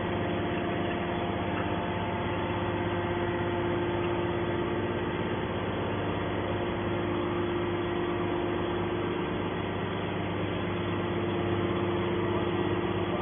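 Hydraulic metal scrap baler running steadily: an even machine hum made of several held tones that stay at one pitch.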